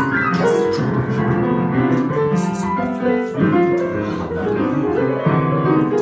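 Piano music, a run of sustained notes changing every fraction of a second.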